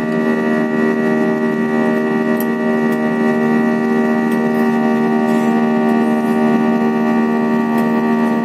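Airliner engines droning steadily, heard inside the cabin during the climb after take-off: a constant hum made of many held tones at once, with no change in pitch.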